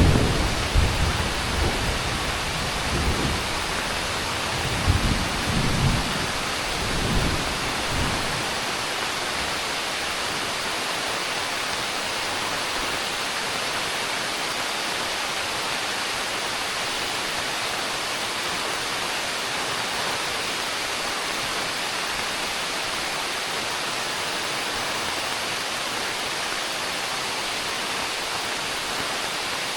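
Heavy rain pouring steadily as an even hiss. Low rumbles of thunder come in the first several seconds and die away about eight seconds in.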